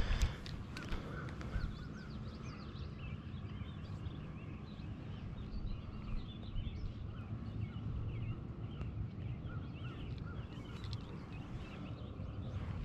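Small birds chirping and singing, with many short calls throughout, over a low steady rumble.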